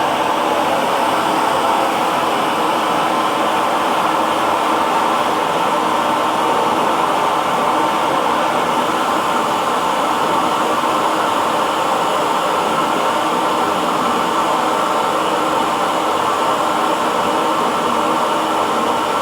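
Hair dryer running steadily, a constant whooshing blow with a faint motor hum.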